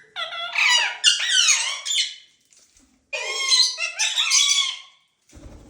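Indian ringneck parrot giving shrill, squeaky calls in two bouts of rapid, pitch-bending screeches, each about two seconds long, with a short pause between them.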